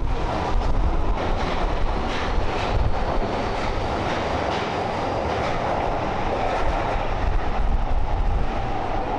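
Kyoto subway Karasuma Line train running on the rails: a steady rumble with a held whine, and a few wheel clicks in the first few seconds.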